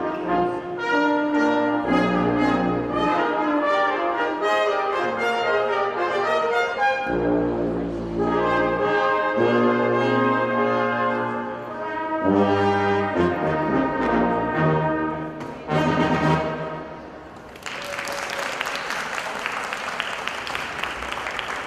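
Brass ensemble playing through to a final held chord, followed by audience applause for the last few seconds.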